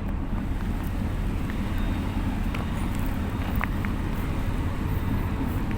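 Boat engine running steadily, a continuous low rumble with a few faint ticks over it.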